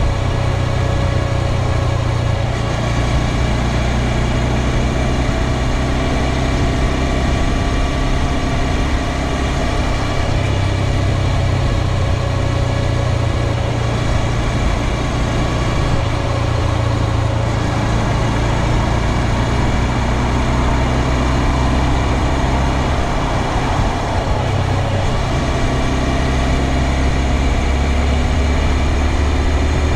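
2022 Honda Grom's 125 cc single-cylinder engine and drivetrain running steadily, with a strong low hum and a higher tone that drifts slowly in pitch. This is the noise the owner reports as still present even after the dealer replaced the drive chain with an O-ring chain.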